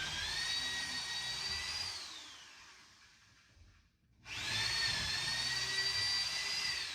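Power drill boring holes through the wooden benchwork frame for carriage bolts, in two runs: each whine rises to a steady pitch, holds for about two seconds, then winds down.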